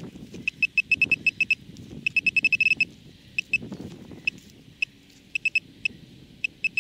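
Metal-detecting pinpointer probe beeping in bursts of short, high beeps of one pitch as it is worked around a hole to locate a small target, the beeps coming fastest about two seconds in, over a low rustle of soil.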